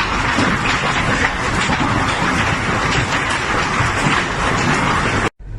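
Heavy hail pelting down, a dense steady clatter of countless impacts, cut off abruptly near the end.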